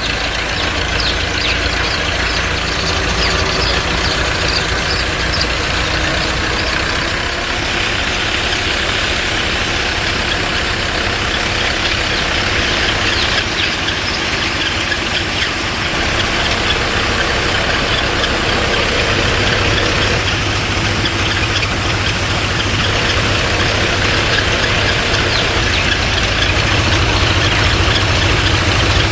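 Small electric motor of a homemade toy tractor and water-pump model running steadily with a dense, rattling buzz.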